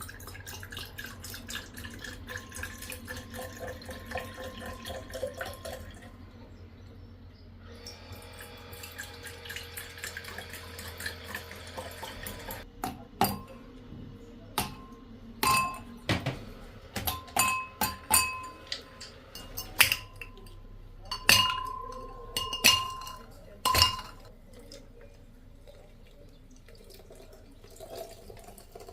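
Liquid being poured into a glass, then a series of sharp clinks against a drinking glass, each one ringing briefly, as a mocktail is made.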